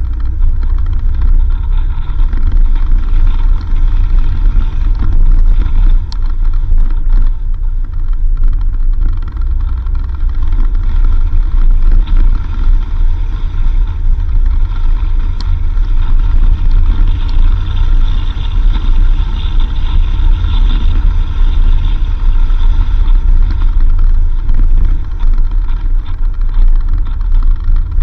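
A 4x4 vehicle driving on a dirt road: a steady, loud low rumble of engine and tyres, with a couple of faint clicks.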